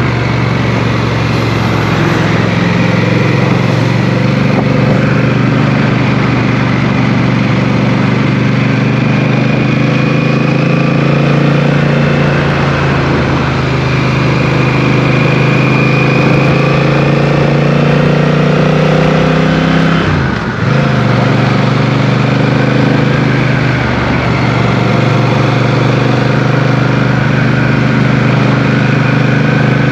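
Motorcycle engine running under way with rushing wind noise, its note rising and falling a little. About twenty seconds in the engine note dips briefly and picks up again, as at a gear change.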